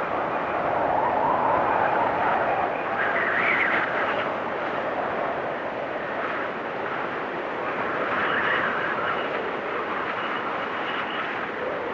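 Blizzard wind blowing in gusts that swell and ease every few seconds, with a faint high whistle at times.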